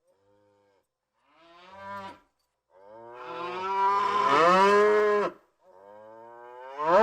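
Buffalo mooing in a series of calls: two short moos, then a long, loud, drawn-out moo in the middle, then another moo that rises near the end.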